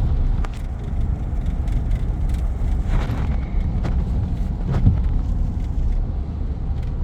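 Pickup truck driving, heard from inside the cab: a steady low rumble of engine and road noise, with a few light clicks and knocks.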